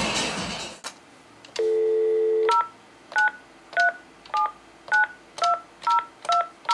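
Telephone keypad dialing a number: about nine short two-tone touch-tone beeps, roughly two a second, after a brief steady tone. Loud music cuts off in the first second.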